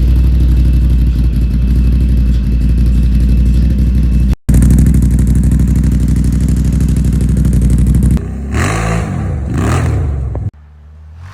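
Can-Am Renegade 800 ATV's Rotax V-twin running steadily and loud through an HMF performance exhaust, with a brief dropout about four seconds in. Near the end the throttle is blipped twice, the pitch rising and falling each time, then the sound cuts to a much quieter engine.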